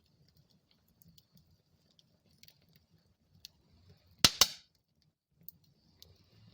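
Wood fire crackling in a fireplace: faint scattered ticks over a low rumble of flame, with two loud sharp pops in quick succession about four seconds in.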